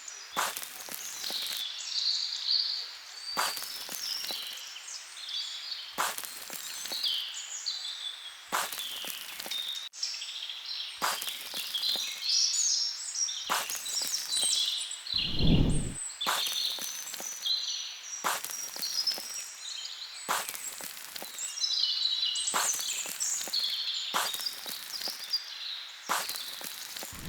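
Outdoor ambience with high bird-like chirping throughout, and a broad crunching or rustling noise that repeats about every two and a half seconds. One short low thud comes a little past halfway.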